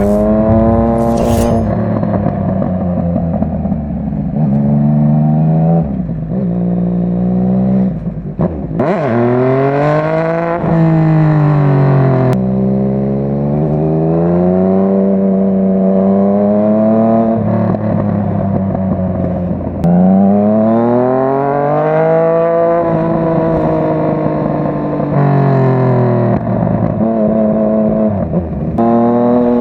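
Yamaha MT-09's three-cylinder engine and exhaust under way, its pitch repeatedly climbing under acceleration and falling off, with several sudden drops in pitch at gear changes.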